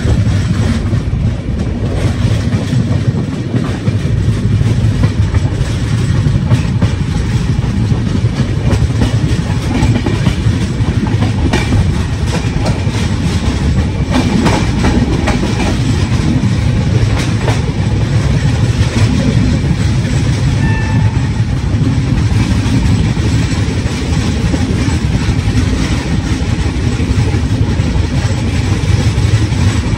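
Indian Railways passenger train running along the track, heard from inside the coach: a steady, loud rumble of wheels on rail, with a few clicks from the wheels near the middle.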